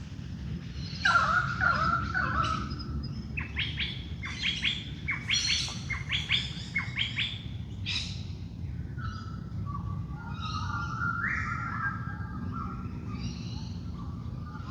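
Wild birds calling in a dawn chorus. A loud call comes about a second in, then a quick run of sharp, high chirps for several seconds, then softer warbling notes, all over a steady low background rumble.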